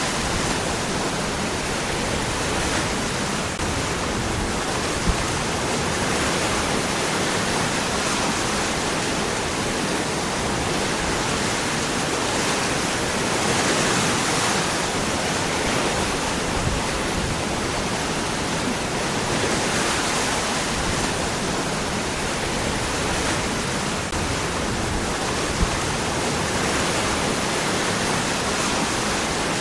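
Waterfall: water falling and splashing among rocks, a steady, even rushing.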